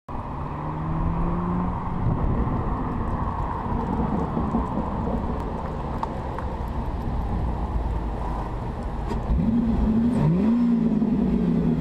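A Ford Mustang's engine as the car drives up toward and right up to the camera over road and wind noise, louder about nine seconds in as it closes in, its pitch rising and falling with the throttle.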